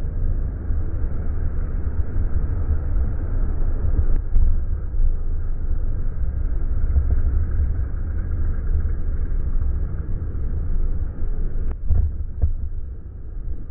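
Wind buffeting the microphone of a camera moving along a road: a steady low rumble with a haze of road noise. A brief click about four seconds in and another near twelve seconds.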